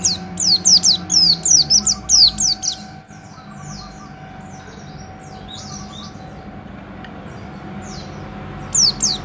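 Pleci (white-eye) singing a fast run of sharp, high, downward-sliding notes several times a second, fading to scattered fainter notes a few seconds in, then breaking into the rapid run again near the end. A steady low hum lies under it.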